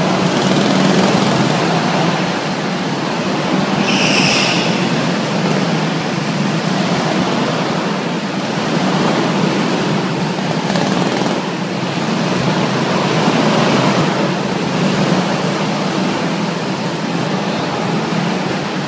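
Go-karts running laps on an indoor track, a steady drone that echoes in the hall, with a brief high-pitched sound about four seconds in.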